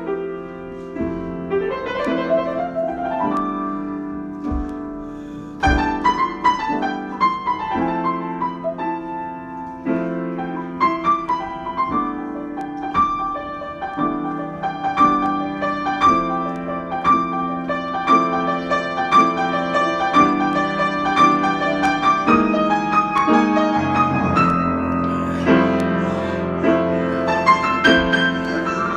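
Solo piano improvisation: held chords and a steady stream of struck notes, with the pulse filling in after about six seconds.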